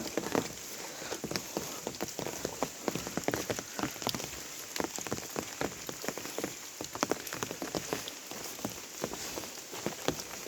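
Monsoon rain falling, with many close, irregular drop hits over a steady hiss of rain.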